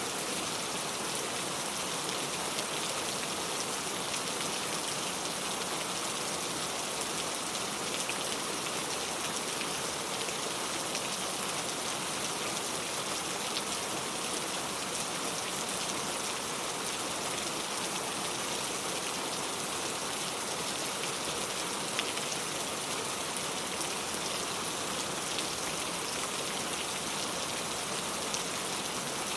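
Steady rainfall, an even patter of many drops falling on surfaces, with small scattered drip ticks.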